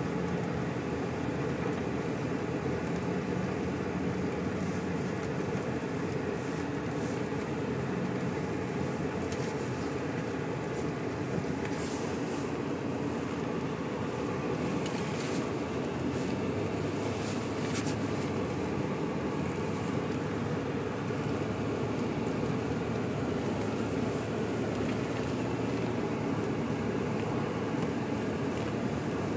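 Steady engine and road noise inside a moving vehicle's cabin, driving on a snow-covered road, with a few faint ticks in the middle.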